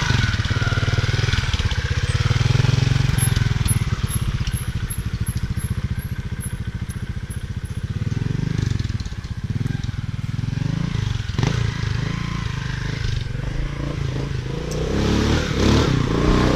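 Motorcycle engine running at low revs with a steady firing beat. Its pace changes about two-thirds of the way through and it picks up toward the end, as the throttle is worked while riding slowly over rough ground.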